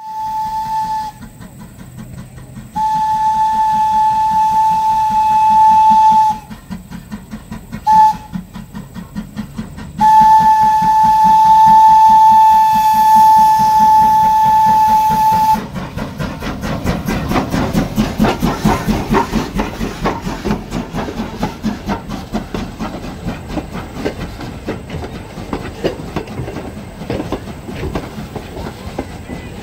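Steam tank locomotive dressed as Thomas the Tank Engine sounding its whistle in four blasts: a short one, two long ones with a very short toot between them. It then works past with quick, regular exhaust chuffs that build and slowly fade.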